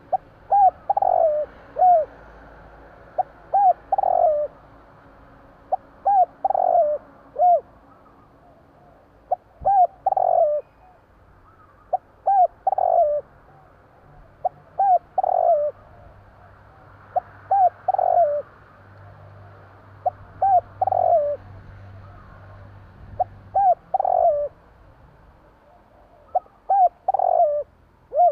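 Spotted dove cooing over and over, a short phrase of a few notes repeated about every two to three seconds.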